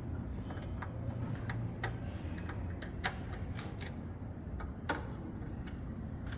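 Irregular small clicks and ticks of screws being driven in with a screwdriver to fasten a desktop computer's power supply into its metal case, the sharpest click about five seconds in.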